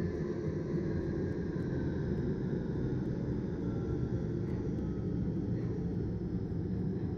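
A steady deep rumble, unchanging in loudness throughout.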